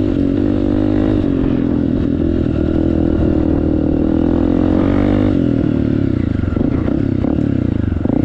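Honda CRF250F's single-cylinder four-stroke engine running through an FMF aftermarket exhaust while riding, the revs rising and falling. About five and a half seconds in it drops to a lower engine speed, with the separate exhaust pulses audible.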